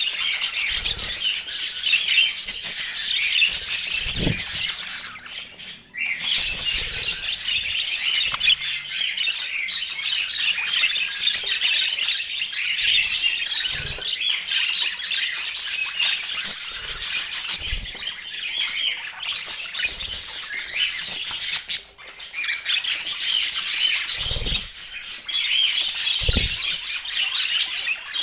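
Several budgerigars chattering, chirping and squawking without a break, with a few soft low thumps scattered through. The chatter dips briefly twice.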